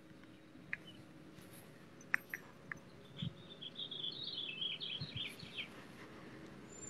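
A songbird sings a quick, warbling phrase of short high chirps about three seconds in, lasting a couple of seconds. A few faint clicks come before it.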